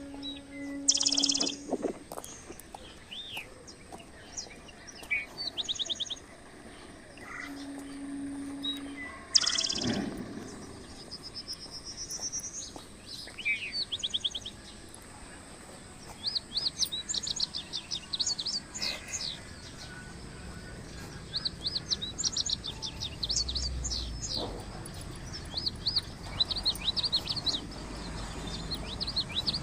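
Small birds chirping and twittering in many short high calls, the calls coming thick and fast in the second half. Two brief loud rushes of noise break in, about a second in and again about ten seconds in.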